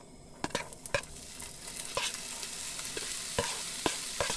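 Sliced smoked chicken sausage, bell pepper and onion going into a hot pan on a camp stove and starting to sizzle, about half a second in, with sharp clicks of a utensil stirring them in the pan.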